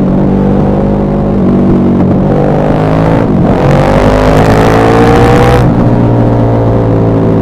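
KTM 1190 Adventure R's LC8 V-twin with an aftermarket Wings exhaust, running loud on the downhill. Its pitch dips briefly about three seconds in, then climbs steadily under throttle for about two seconds before the throttle closes and the revs sag slowly on the overrun.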